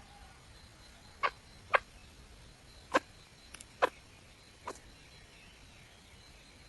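Red junglefowl hen giving a string of short, sharp clucks, about six, spaced unevenly half a second to a second apart.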